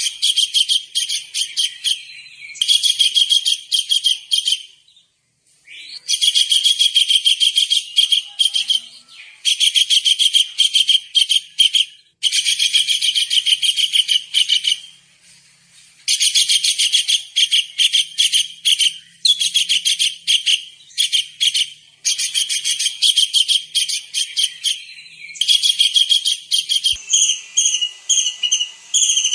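Small kingfisher (tengkek udang) calling in rapid trains of sharp, high chirps, each burst lasting one to three seconds with short pauses between. Near the end the calls turn into steadier high whistled notes.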